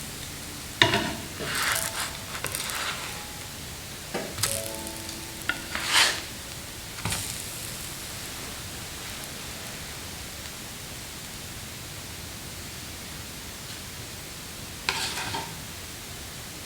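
Kitchenware clattering: a few knocks and clinks, one with a short metallic ring, then a steady hiss with another brief clatter near the end.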